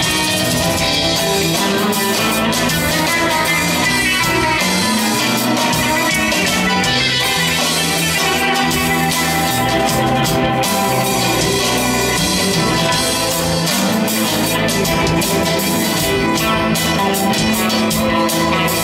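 A band playing live, guitar and drums over a steady beat, with no singing.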